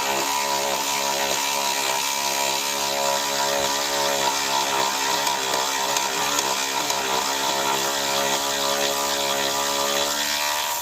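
A small motor-driven machine running steadily, a buzzing drone that wavers slightly in pitch and fades out near the end.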